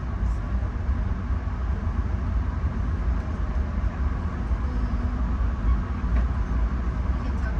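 Steady low rumble of a Bombardier LRC passenger car rolling along the track at speed, heard from inside the car.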